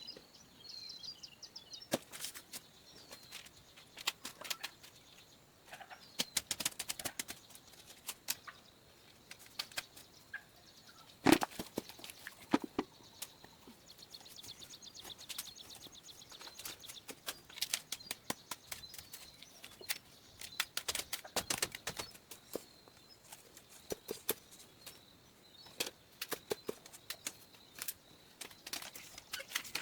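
Irregular knocks, taps and clatter from handwork, with one louder knock about eleven seconds in, over a faint steady high-pitched drone.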